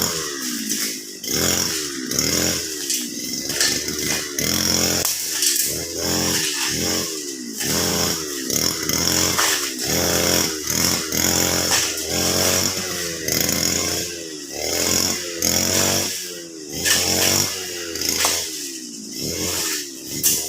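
Brush cutter engine revving up and down about once a second as it cuts grass, its pitch rising and falling with each swing of the throttle.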